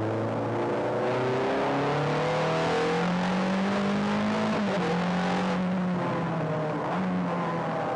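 Ferrari V8 engine heard from inside the cabin, pitch climbing under hard acceleration, then a sharp drop at a gear change about four and a half seconds in, after which it runs steadier and eases off. A rushing noise rides over it through the middle and cuts off suddenly just after the shift.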